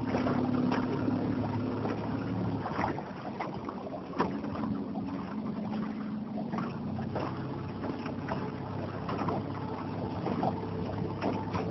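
Small motorboat's engine running steadily at low speed, a low hum, with water splashing and slapping against the hull.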